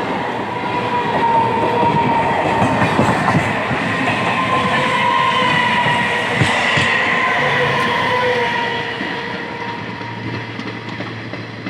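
Passenger train running on the rails, wheels clicking over the track with a thin steady squeal on top. The sound grows quieter in the last few seconds.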